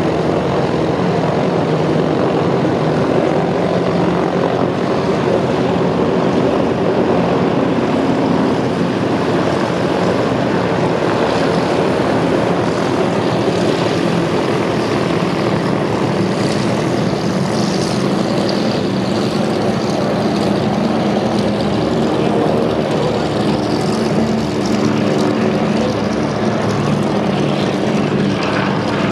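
Douglas DC-3/C-47 Dakota radial piston engines and propellers running steadily and loudly.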